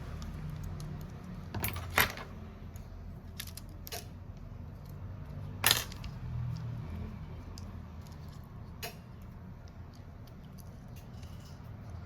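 Scattered sharp clicks and light metallic clinks of small repair tools and phone parts being handled and set down on a workbench, with two louder taps about two seconds and six seconds in, over a low steady hum.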